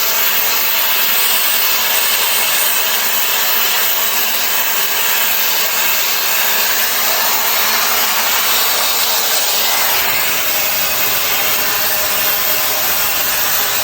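Shark FlexStyle air styler running with its curling barrel attached: a steady, even rush of blown air.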